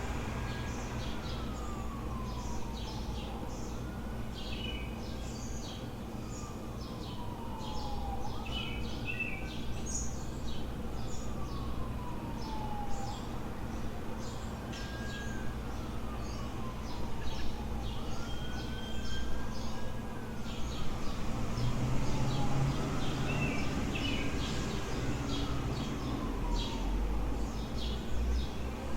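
A faint emergency-vehicle siren wailing, slowly falling and rising in pitch about every five seconds, over many birds chirping and a steady low traffic rumble. A vehicle passes more loudly near the end.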